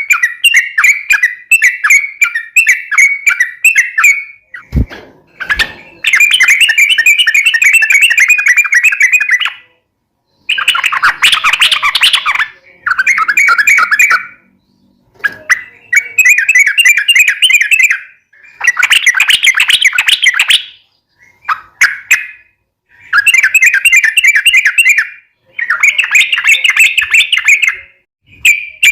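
Yellow-vented bulbul (trucukan) singing long runs of fast chattering notes, the 'ropel panjang' trill, in bursts of two to four seconds with short pauses between them.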